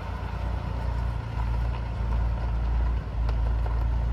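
Large truck engine running with a steady low rumble as the rig drives past.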